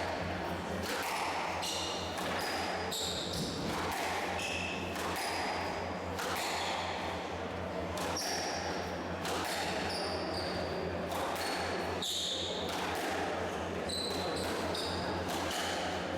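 Squash rally: the ball struck by racquets and hitting the court walls in irregular sharp knocks, with short high squeaks of shoes on the court floor and a steady low hum underneath.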